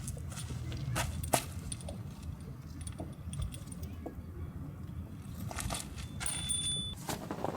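Light clinks and knocks of small hard objects being handled: scattered single ticks, with one sharp knock about a second and a half in and a cluster of clicks near the end.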